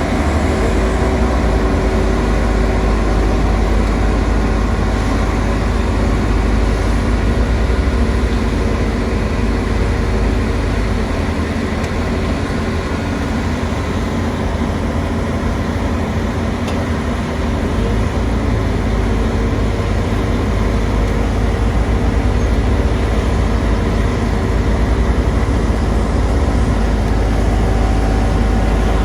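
Engines of heavy road-construction machinery running steadily: a continuous low rumble with a steady hum over it.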